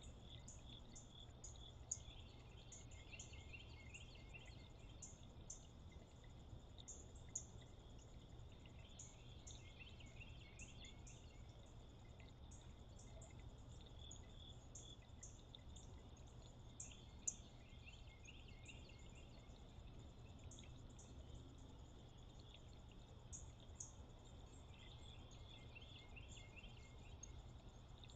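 Faint pre-dawn birdsong: a short trill repeated about every eight seconds over many brief high chirps, with a steady low hum underneath. A few sharp ticks stand out, the loudest about seventeen seconds in.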